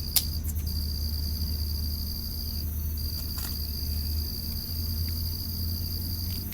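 Cricket trilling steadily in one high, unbroken tone that pauses briefly twice, over a steady low hum. A sharp click comes just after the start and a fainter one about halfway.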